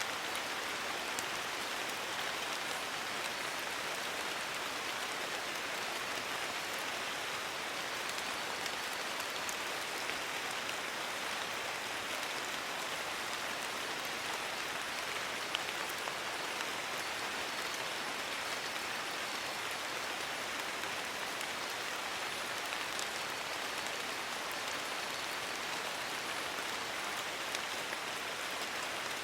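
Steady rain falling on leaves, an even hiss with scattered drop ticks.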